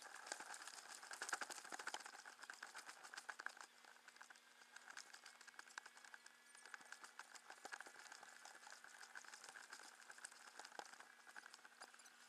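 Faint, irregular patter of small drips and ripples crackling on water, busier in the first three and a half seconds, over a faint steady hum.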